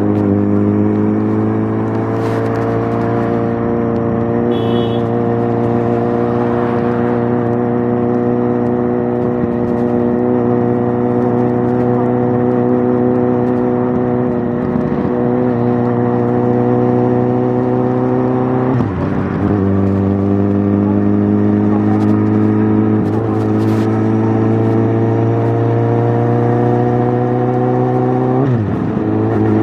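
Suzuki GSX650F inline-four running through an aftermarket Tiger exhaust, its pitch climbing slowly and steadily. Twice, about two-thirds of the way through and again near the end, the note briefly drops sharply and picks straight back up.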